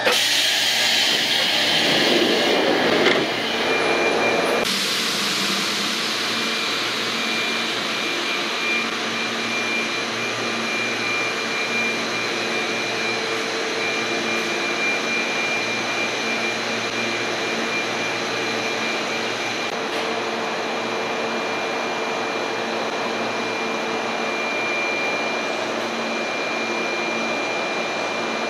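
A stopped electric commuter train, an ex-Keio 3000 series, standing at an underground platform: its on-board equipment and the station ventilation make a steady whirring drone with a thin high whine and a low hum. The first few seconds are louder and changing.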